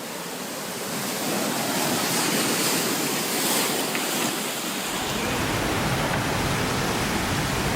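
Heavy surf: storm waves crashing and water rushing as a steady roar, with a deeper rumble joining about five seconds in.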